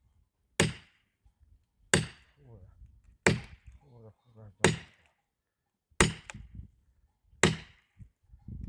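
Firewood being chopped with an axe: six sharp, evenly spaced blows, about one every second and a half.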